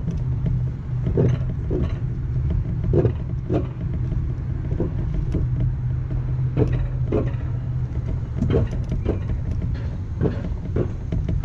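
Wiegand alpine coaster bobsled running along its steel tube track: a steady low rolling rumble and hum from the wheels, with irregular clacks and knocks as the sled passes over track joints.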